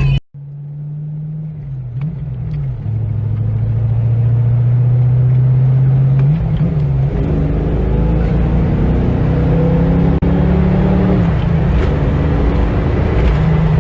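Car engine running steadily under way, its hum shifting in pitch twice as the revs change. The sound drops out briefly just after the start.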